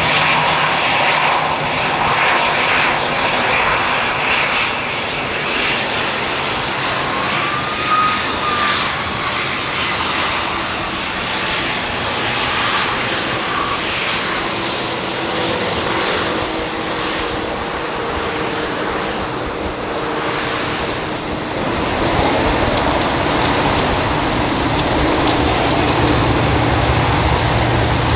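Aircraft engine noise: a steady rushing drone with faint whining tones. About three-quarters of the way through, a brighter hiss comes in on top.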